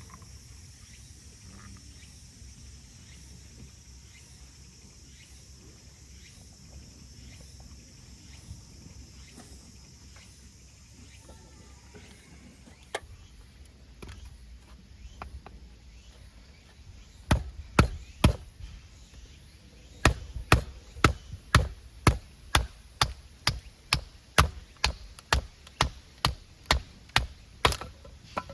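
Sharp chopping strikes: a faint steady high hiss in the first half gives way to three separate strikes, then an even run of about two strikes a second.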